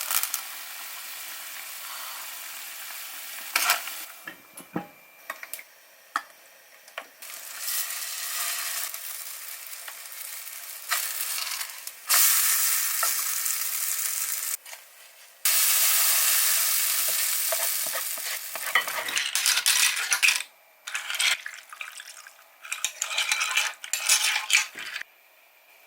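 Food frying in a pan: a steady sizzle in several stretches that start and stop abruptly, with clicks and scrapes of a utensil stirring and turning it in the pan.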